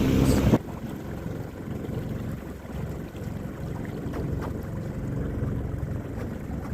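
A small boat outboard motor running, which stops abruptly less than a second in. It leaves wind buffeting the microphone and water noise around the boat.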